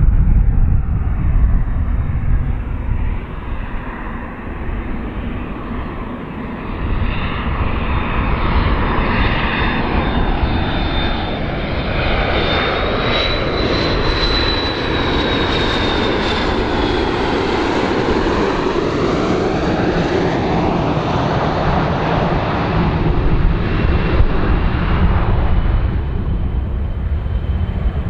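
Large fixed-wing aircraft's engines heard loud as it flies close past, a steady noise with a high whine that rises toward the middle and then drops in pitch as it goes by.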